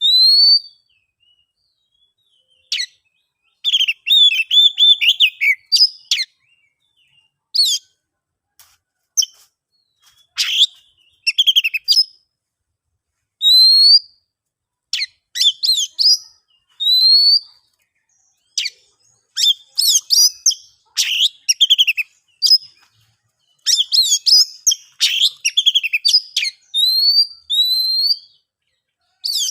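Oriental magpie-robin (kacer) singing loudly in separate phrases: rising clear whistles and fast chattering trills, with short pauses between phrases.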